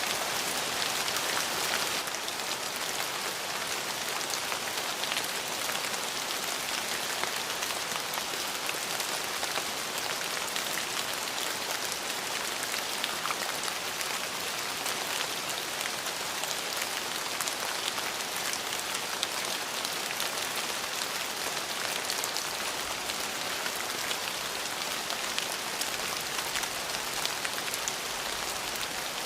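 Steady rain falling on a surface, an even hiss of many fine drop ticks with no thunder.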